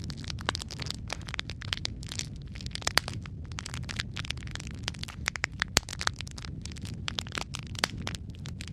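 Wood fire crackling in a fireplace: logs burning with a steady low rumble of flame and dense, irregular snaps and pops, a few louder sharp pops among them.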